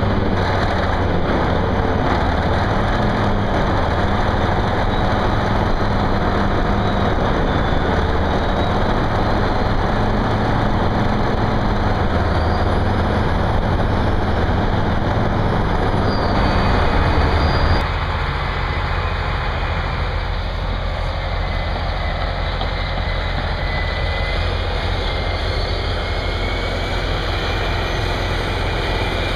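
Heavy diesel engine of earthmoving equipment running steadily after a cold-weather start. About eighteen seconds in the sound changes and becomes a little quieter.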